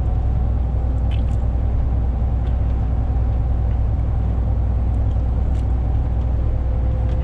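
Steady low rumble of a truck's diesel engine running, heard from the cab, with a faint steady hum above it.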